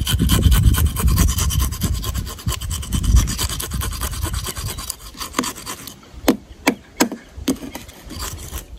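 Rasping, scraping and rubbing noises, with a run of separate sharp clicks or knocks in the second half.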